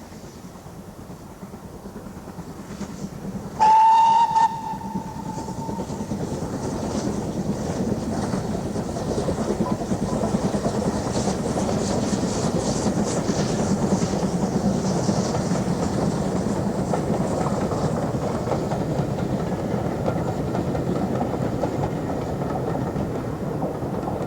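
A steam locomotive gives one short, loud whistle blast about four seconds in. The train then approaches and runs by, its rumble growing louder and holding steady.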